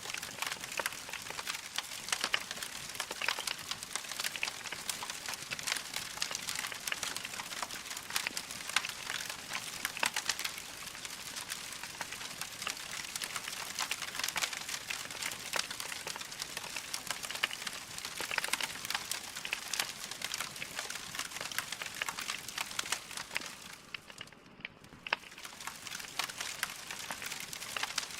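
Wood fire crackling: burning logs giving a dense, continuous run of small pops and snaps, briefly quieter about 24 seconds in.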